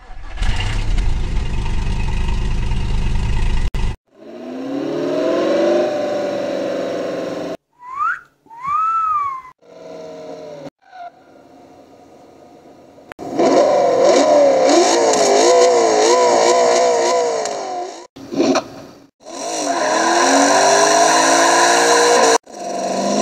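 Car engine sound effects spliced one after another: a rumble, then several engine clips revving up and down, each cut off abruptly. Two short high squeals come about eight seconds in, and there is a quieter stretch a few seconds later.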